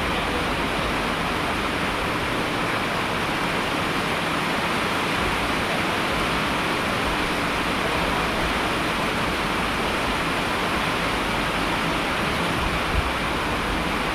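Steady, dense rain falling, an even hiss of water.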